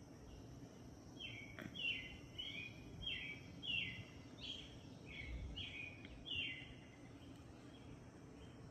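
A bird calling: a run of about nine short chirps, each sliding down in pitch, about a second in until near the end, over a faint steady low hum. A single click sounds about a second and a half in.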